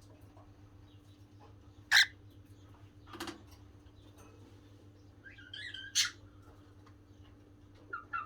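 Pet cockatiel making a few short, separate chirps and calls. The sharpest and loudest comes about two seconds in, a longer pitched call ends in a loud chirp around six seconds, and quick chirps follow near the end, over a steady low hum.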